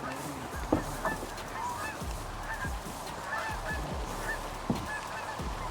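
Geese honking repeatedly in a flock, many short calls overlapping. Two sharp knocks stand out, about a second in and near the end.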